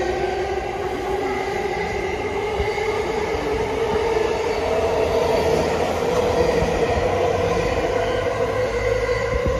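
E217-series electric train rolling along the platform: a steady rumble of wheels on rail, with a constant electric whine from the traction equipment running through it.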